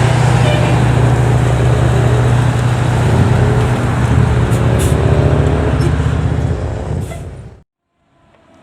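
A fire truck's engine runs loud and steady, with a few faint rising tones partway through. The sound then fades out to silence near the end.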